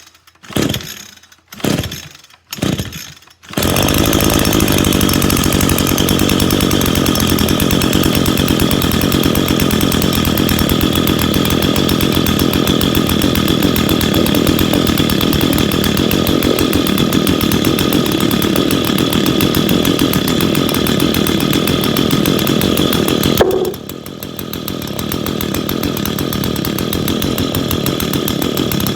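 Echo SRM 225 two-stroke string trimmer being pull-started without the choke after priming: three quick pull-rope strokes, then the engine catches about three and a half seconds in and runs at high speed. About twenty-three seconds in it drops back and then builds up again.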